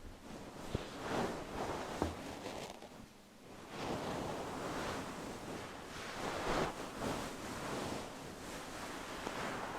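Furry microphone windscreen being rubbed in repeated strokes, close to the mic: soft rustling swishes that swell and fade, with a couple of light taps in the first two seconds.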